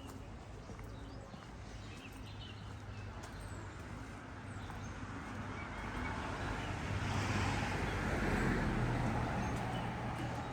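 A car passing along the street, its engine and tyre noise swelling to a peak about eight seconds in and then fading.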